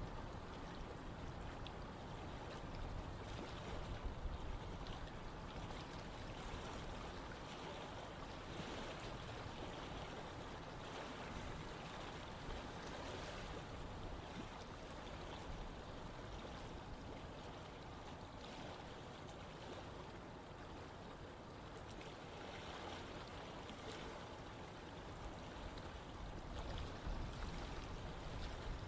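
Running water of a stream flowing steadily, an even rushing and trickling with no breaks.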